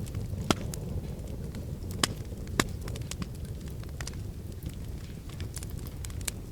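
Wood fire in a fireplace crackling over a steady low rumble, with scattered sharp snaps and pops; the loudest come about half a second, two seconds and two and a half seconds in.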